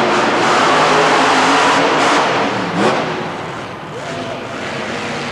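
Monster truck engines running loud, one revving up sharply about three seconds in before the sound eases off.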